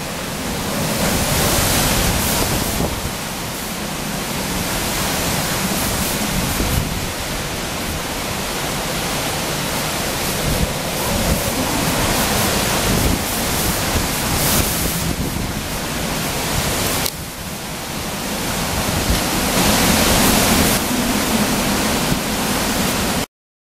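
Typhoon-force wind gusting through a row of pine trees, a loud continuous rush that swells and eases. It drops suddenly about 17 seconds in, builds again, and cuts off abruptly just before the end.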